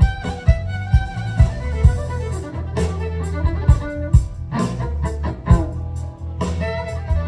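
Live band playing an instrumental passage with no vocals: a fiddle carries the melody over guitar, bass and a steady kick-drum beat.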